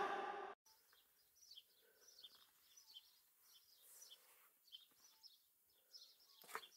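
Near silence with faint, scattered high bird chirps. Music fades out in the first half second, and there is a brief faint sound near the end.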